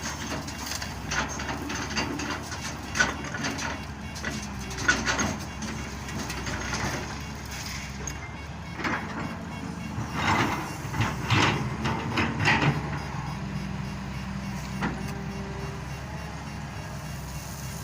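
Heavy diesel machinery engine running steadily while rocks clatter and knock in repeated bursts, densest a little past halfway, as they are dropped into a dump truck bed.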